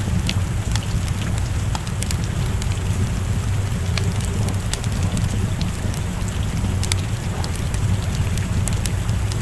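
Wood fire crackling, with scattered sharp pops, over a steady wash of rain and a low rumble.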